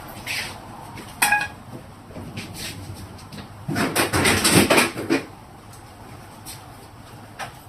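Refrigerator being pushed and shifted: a few knocks and rattles, one with a short metallic ring, then a louder, longer rumbling scrape for about a second and a half in the middle.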